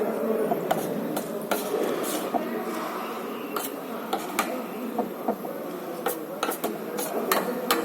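Cutlery clinking and scraping against a plate during a meal: irregular sharp clinks, about ten of them, over a steady background.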